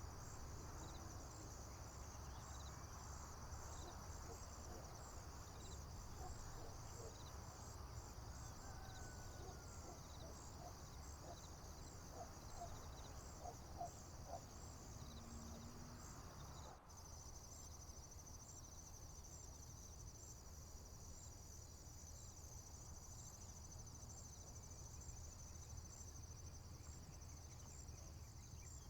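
Faint chorus of crickets and other insects chirping steadily and high-pitched over a low outdoor rumble. About 17 seconds in the chorus changes abruptly to a smoother, unbroken trill.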